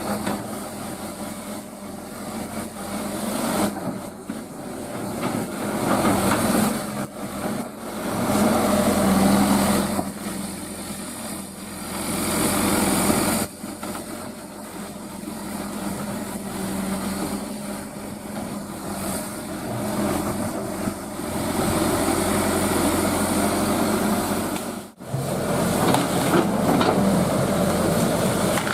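Excavator engine running under varying load, its loudness swelling and easing every few seconds as it works, with a sudden brief dropout near the end.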